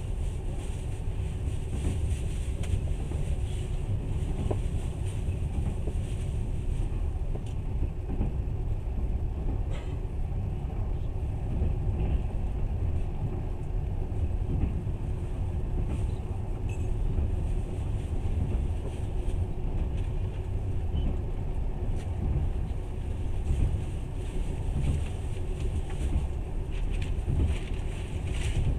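Passenger train running steadily, heard from inside the carriage: an even low rumble of wheels on rails with a faint constant hum and a few light clicks.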